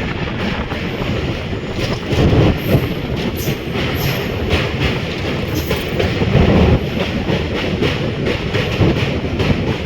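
Passenger train running along the track: a steady rumble with repeated knocks of the wheels over the rails, swelling louder a couple of times.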